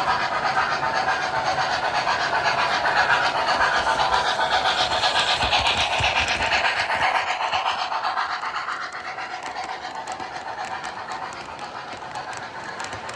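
Steam locomotive chuffing at a steady, quick rhythm, getting somewhat quieter after about eight seconds.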